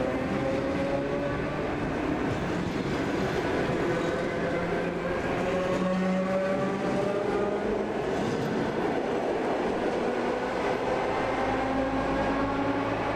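Suburban electric train running at speed, heard from inside the carriage: a steady rumble of wheels on rails with the whine of the traction motors.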